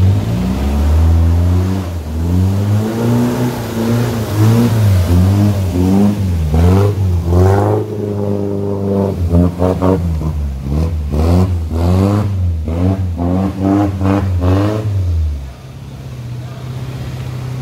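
Off-road 4x4's engine revving hard again and again while it drives through a muddy river; its pitch rises and falls repeatedly, then drops to a quieter steady running note about fifteen seconds in.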